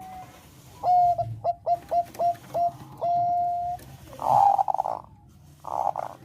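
Zebra dove (Thai perkutut bangkok) singing: a run of about six short, clipped coos ending in one longer held note, followed by two rougher, buzzier coos.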